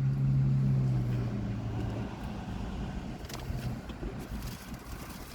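A steady low hum that fades away over the first two seconds or so, followed by a quieter background with a few faint clicks.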